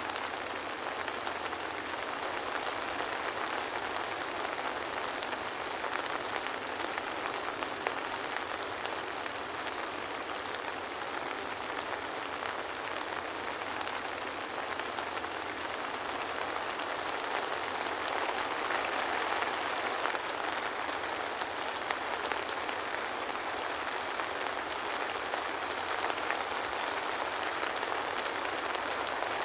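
Steady soft rain falling, an even patter of drops without thunder.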